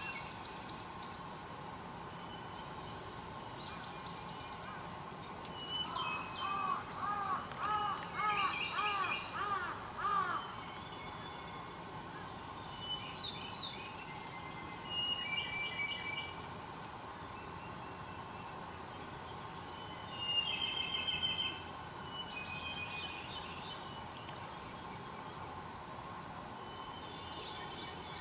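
Several wild birds calling and singing, with high chirps and trills throughout. A loud run of about a dozen quickly repeated arched notes comes about six seconds in, and another burst of calls comes about twenty seconds in.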